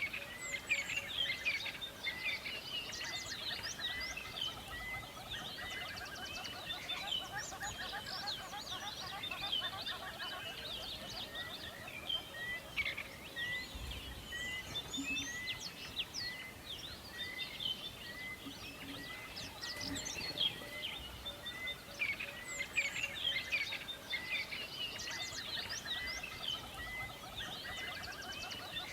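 Many birds singing and calling together in a dense chorus of chirps and whistles, with one bird repeating the same short note about once a second through much of it.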